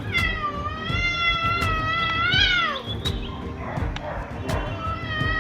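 A cat yowling: one long drawn-out call that rises in pitch and then drops away, about three seconds long, and a second yowl beginning near the end, over background music with a steady beat.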